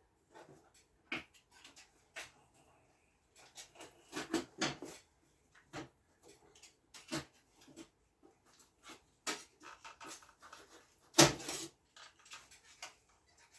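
Irregular clicks, taps and knocks of hands and tools at work, with one louder knock about eleven seconds in.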